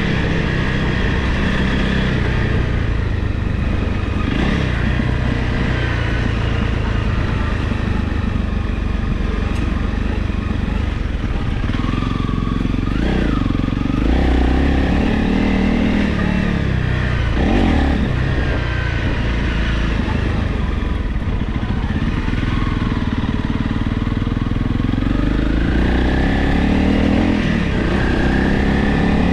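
Honda CRF Rally dual-sport motorcycle's single-cylinder engine running under way off-road, its revs rising and falling again and again as the rider works the throttle and gears.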